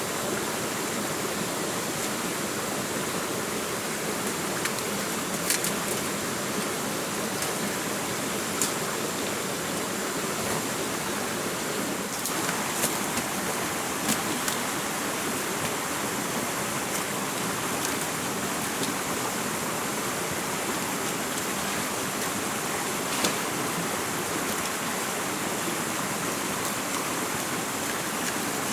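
Steady rushing water, with a few sharp taps or clicks scattered through and a faint steady high tone above it.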